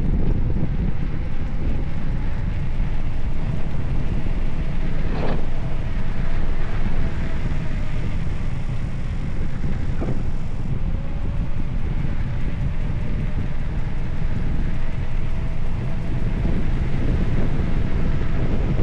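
Wind buffeting the microphone: a loud, steady rumble, with a faint steady tone underneath and two brief sharp sounds about five and ten seconds in.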